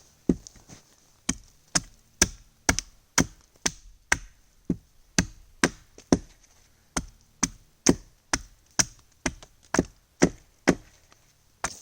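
Steady chopping on wood, about two sharp blows a second with a brief pause midway.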